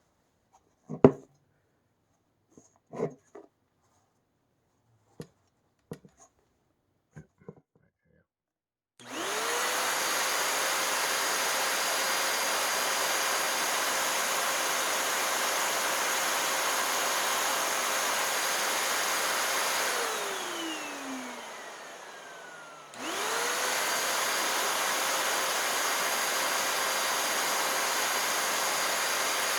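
A few knocks of handling, then the bare Hoover NanoLite vacuum motor spins up fast and runs at a steady high whine. It is run for spindle cleaning with sandpaper, which is expected to be loud. About 20 s in it is switched off and winds down with falling pitch, and a few seconds later it starts again and runs on.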